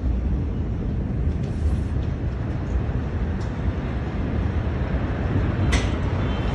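A steady low rumble with wind on the microphone, from amateur footage of a massive warehouse explosion, with faint short cracks about three and a half seconds in and near the end.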